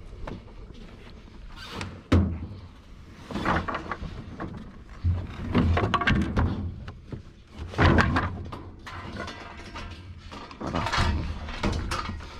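Irregular thuds and knocks, about half a dozen, with rustling and scraping between them: junk being handled and shifted in a curbside rubbish pile.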